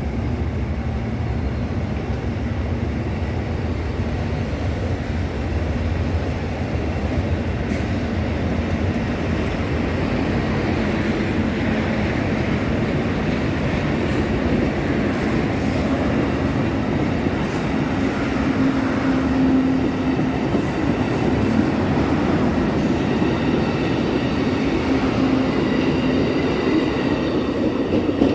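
A train running on the rails: a steady, continuous rumble of wheels and cars, with a low steady tone in the second half.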